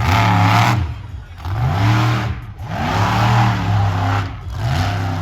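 Monster truck engine revving hard in repeated throttle bursts, its pitch rising and falling about once a second with short dips between.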